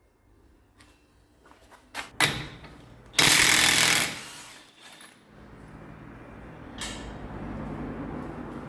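A few metallic clicks and knocks from tools, then a loud burst of about a second from a pneumatic air tool. After it a steady low machine drone starts up and keeps running.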